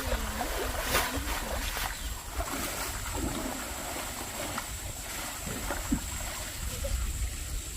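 Wind rumbling on the microphone over faint sloshing and splashing of water while fish are caught in a drained fish pond, with a few small knocks.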